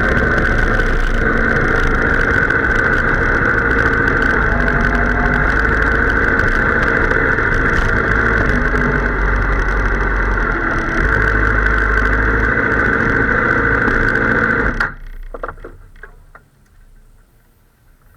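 Sportbike engine running with a steady roar and wind noise; its low note shifts in steps. The sound stops suddenly about fifteen seconds in.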